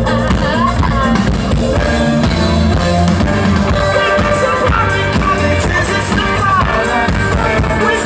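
Rock band playing live, with a singer's voice over drums and guitar.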